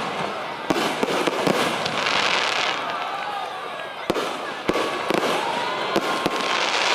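Aerial fireworks going off: sharp bangs at irregular intervals, about seven in all, with a burst of crackling around two seconds in.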